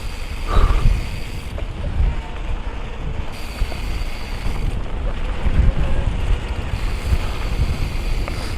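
Wind buffeting the microphone as a Specialized Turbo Levo electric mountain bike rides fast down a dirt trail, over a steady low rumble of tyres and bike on the ground with a few knocks.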